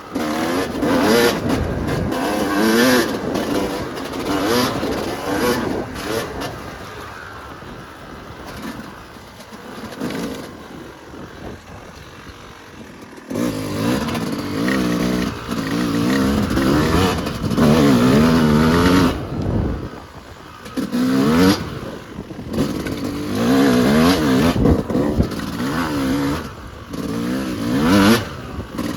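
Yamaha YZ250 two-stroke dirt bike engine under riding, revving up and down in repeated throttle surges as it pulls through the gears, easing to a lower, quieter run for several seconds partway through before picking up again.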